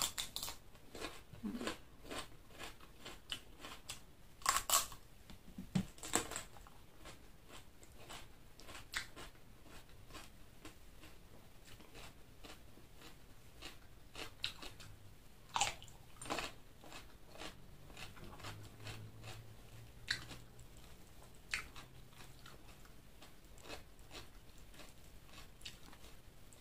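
Close-miked eating: chewing and biting into rice with chicken liver and gizzard, with many scattered sharp crunches and clicks, loudest about four to six seconds in.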